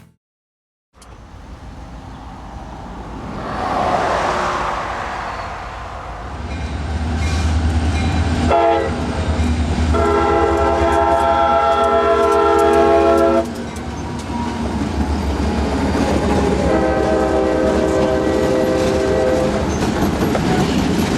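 Diesel locomotive passing with its engine rumbling low, sounding a long blast on its multi-chime air horn in the middle and a second blast near the end.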